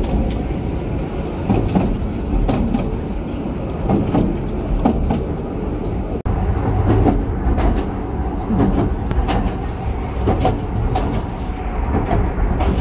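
Passenger carriage on the Brecon Mountain Railway's narrow-gauge line running along, a steady rumble with irregular clicks and knocks from the wheels on the rails.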